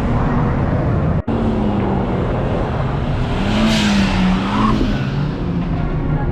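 Performance car engines running, one engine note rising and falling unevenly, with a swell of tyre noise about four seconds in. The sound drops out for a moment just after the first second.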